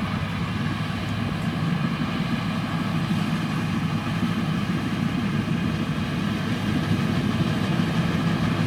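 Rice combine harvester running steadily: a constant low engine drone with even machinery noise over it.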